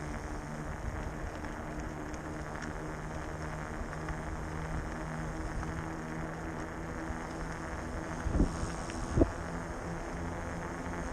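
Bafang 1000 W e-bike motor running under pedal assist with a steady low hum, over wind and fat-tyre rolling noise. Two short thumps come about eight and nine seconds in.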